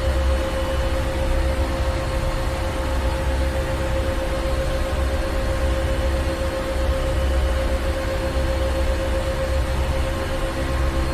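Ship's engine room machinery running steadily: a deep rumble, a constant hum and an even wash of mechanical noise, unchanging throughout.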